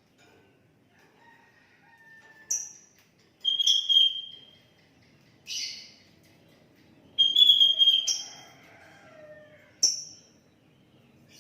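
Sooty-headed bulbul (kutilang) singing: a string of about six short, loud whistled phrases with pauses between them, and softer whistles in the gaps.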